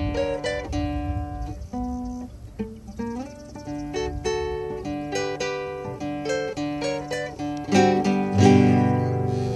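Acoustic guitar played solo, single plucked notes and chords in a lively tune, with a loud full strummed chord near the end.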